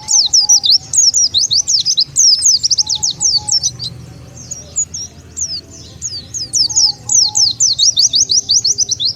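White-eye (pleci) song used as a lure call: fast runs of high, falling chirps, thinning briefly around the middle before picking up again.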